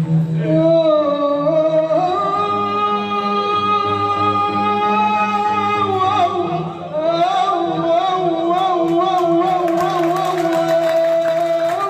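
Live singing: a voice holds two long notes, with a brief break between them about halfway and a wavering, ornamented line near the end, over steady low instrumental accompaniment.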